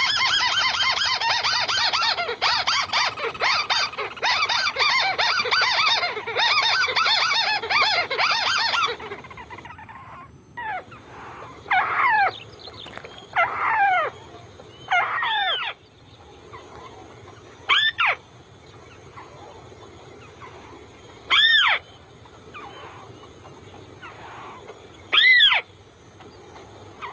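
White-browed crake calling: a loud, dense chattering run for about the first nine seconds, then single short calls falling in pitch every few seconds.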